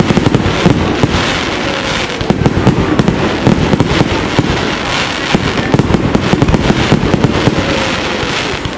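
Fireworks display: aerial shells bursting with a dense, continuous crackling and popping of many small reports.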